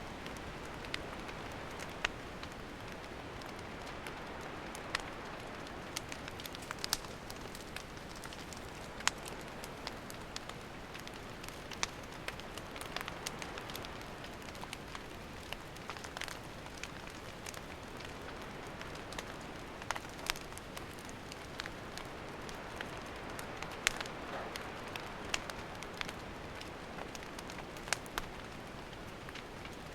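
Wood campfire burning: a steady hiss with scattered sharp crackles and pops every second or two.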